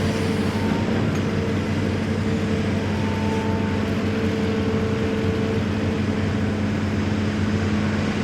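Large tractor engine running at a steady speed: an even, low drone with no change in pitch.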